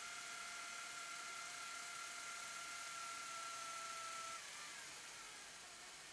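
Small motor whirring in a DAT deck: a faint steady whine over hiss that sinks slightly in pitch and cuts off about four seconds in.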